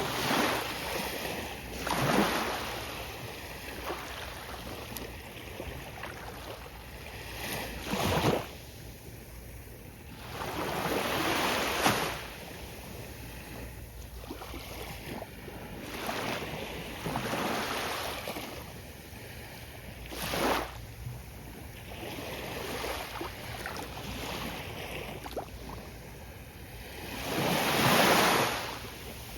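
Gentle ocean waves breaking on a beach: repeated rushes of surf swelling and fading every few seconds, the biggest one near the end, over a steady low rumble.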